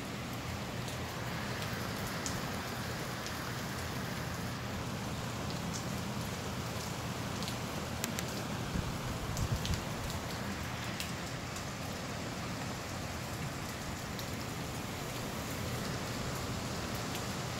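Steady rain falling, with scattered drops ticking close by, over a low rumble of gusty wind.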